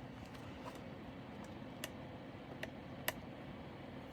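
A handful of faint, short clicks from handling small plastic bags and containers of diamond painting drills, the loudest about three seconds in.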